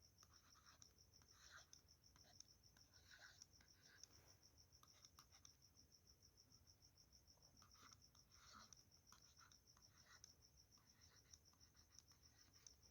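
Near silence with faint scratching strokes of handwriting as the discriminant of x² − 6x + 5 is worked out, over a faint, high, rapidly pulsing tone.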